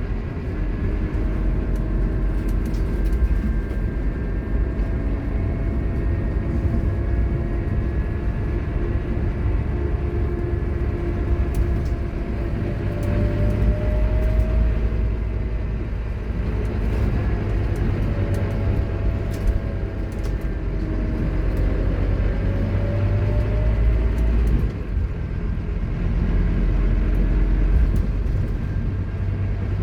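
Scania K230UB Omnilink bus running under way, its ZF Ecomat automatic gearbox whining loudly over a steady low engine rumble. The whine rises in pitch, drops away about halfway through, then rises again.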